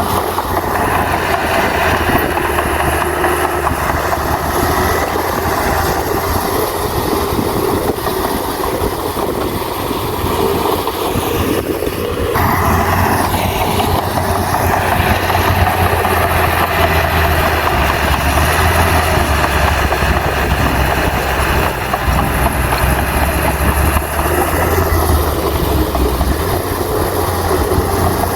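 Heavy diesel engine of a Komatsu crawler bulldozer running steadily under load. There is a brief change in the sound about twelve seconds in, and it runs a little louder in the second half.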